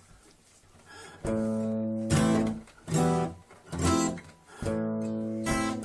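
Acoustic guitar strumming chords, starting about a second in, each chord struck and left ringing before the next.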